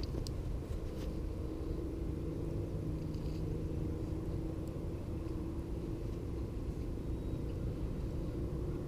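Steady low engine hum of a motor vehicle running, with a few faint clicks about a second in.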